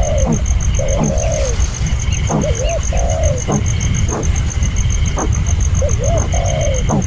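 Dove cooing: repeated low coos, each a short hooked note followed by a longer rolled note that falls in pitch, coming every two to three seconds. A few sharp knocks fall between the coos, and a fast, steady, high-pitched ticking runs underneath.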